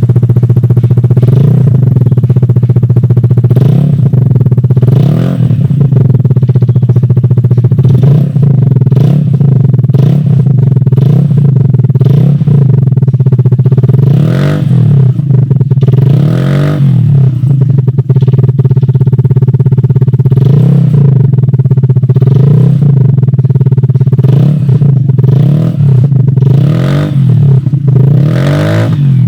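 Vespa LX 150 2V's single-cylinder four-stroke engine running through a Shijiro M45 aftermarket exhaust, held at idle and blipped in short revs about once a second, a few of them pulled higher. The steady exhaust note between revs is loud.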